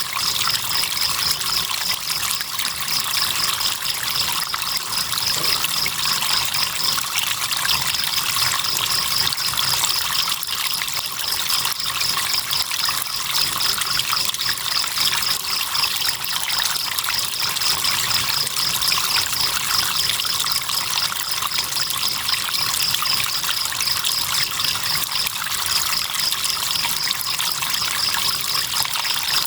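Crickets trilling in a high, rapid pulsing chirp over the steady rush of flowing river water. The trill pauses briefly about seven seconds in and again near the end.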